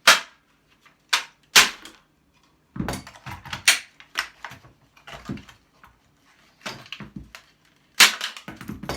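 Irregular sharp metal knocks and clanks from handling and striking scrap motor parts, several coming in quick runs.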